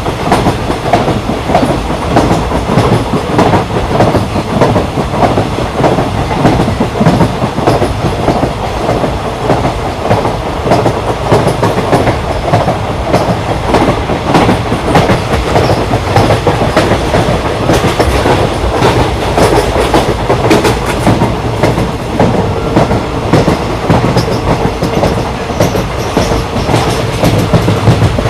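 Passenger train running at speed on Indian Railways track: a steady rumble with continual clickety-clack of the wheels over rail joints and rattling of the coach.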